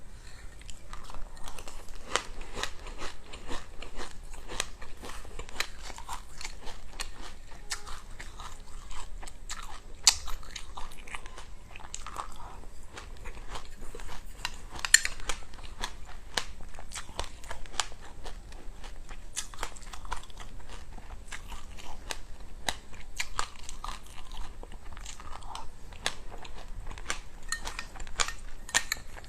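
Chewing and crunching of sesame seeds and passion fruit: a dense, irregular run of sharp crunches, with two louder cracks about ten and fifteen seconds in.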